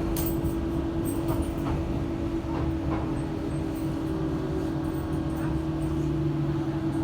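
Docklands Light Railway train running between stations, heard from inside the car: a steady low rumble with a constant hum, and scattered clicks of the wheels over the track.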